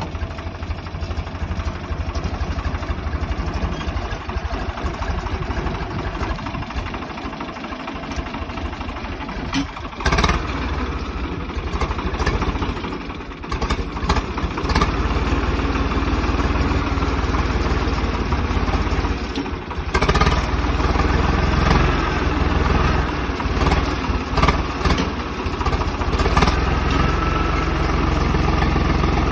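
Swaraj 855 tractor's three-cylinder diesel engine running, its level dipping briefly about halfway through and then running louder, with occasional sharp knocks.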